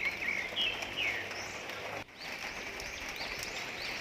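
Birds chirping over a steady background hiss. The sound drops out briefly about two seconds in, and quicker, higher chirps follow.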